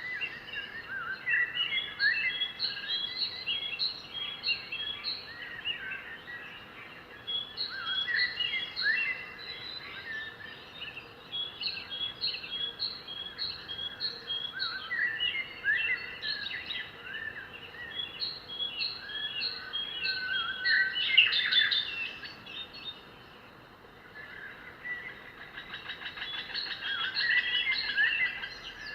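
Several birds singing together: one repeats a short high note in steady series, about two a second, while others chirp and whistle lower. A dense, rapid trill comes in briefly about two-thirds of the way through and again near the end.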